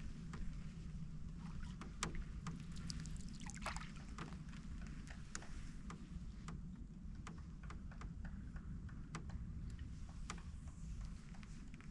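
Canoe being paddled: the paddle dips and drips in the water, with scattered light clicks and knocks, over a steady low rumble.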